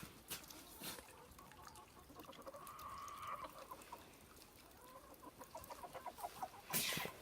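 Chickens clucking faintly: one drawn-out call in the middle, then a quick run of short clucks, with the knocks of footsteps, the loudest near the end.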